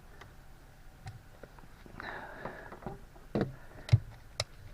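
Scattered light clicks and knocks at irregular spacing, with a few louder ones in the second half.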